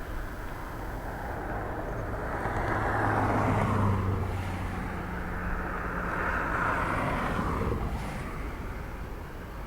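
Passing vehicle noise that swells twice, about three seconds in and again near seven seconds, with a low engine hum under the first swell.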